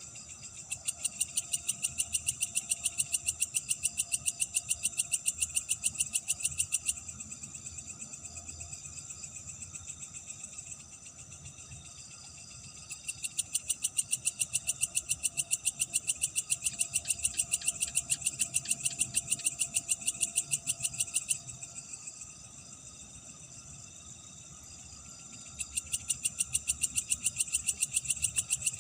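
Night chorus of insects and frogs: a loud, high-pitched call pulsing about four or five times a second comes in three long bouts over a steady background trill.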